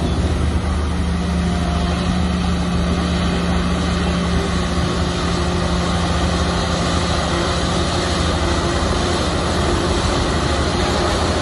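Shantui bulldozer's diesel engine running steadily under a heavy, even drone.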